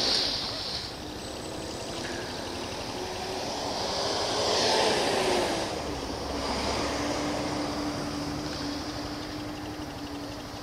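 Honda CB Twister 250F's single-cylinder engine idling at a standstill in city traffic. Surrounding traffic swells to its loudest about four to five seconds in, with a pitch that rises and falls, then settles into a steady hum.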